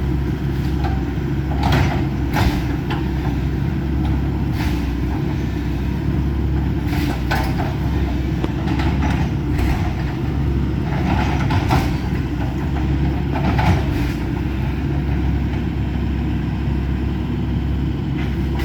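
Excavator's diesel engine running steadily under load, with short crunches and clanks at irregular intervals as the wood-frame house is broken up.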